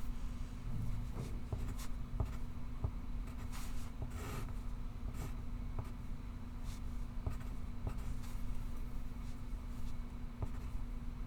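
Pencil scratching on paper in short, irregular strokes with small taps, over a steady low hum.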